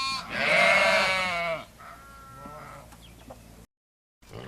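Bleating: one long, loud, wavering call, then a fainter one. It cuts off abruptly, and a different animal's calls start near the end.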